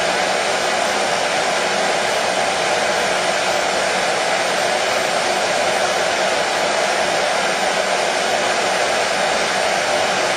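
Hair dryer running steadily, a continuous even blowing whoosh with no change in pitch or level, used as soothing white noise for colicky babies.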